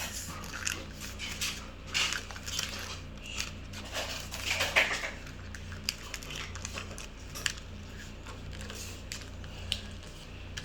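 A sheet of paper being folded and creased by hand: irregular rustles and crinkles, busiest in the first half, over a low steady hum.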